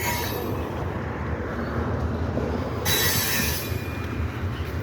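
Norfolk Southern freight train cars rolling past with a steady rumble of wheels on rail, and brief high-pitched hissing from the wheels right at the start and again about three seconds in.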